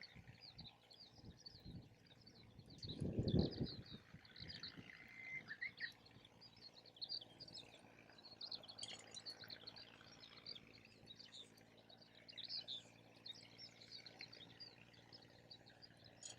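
Small birds chirping, many short high calls one after another. About three seconds in, a brief low rumble of wind buffets the microphone.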